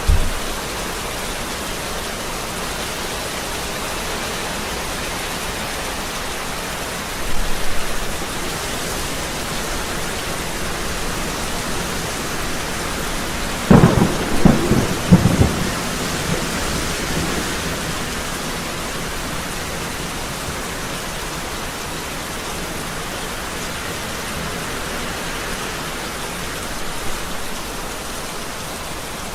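Steady heavy rain falling, with a thunderclap about halfway through: a burst of sharp cracks followed by a rumble lasting a couple of seconds. Lighter thumps of thunder come near the start and about a quarter of the way in.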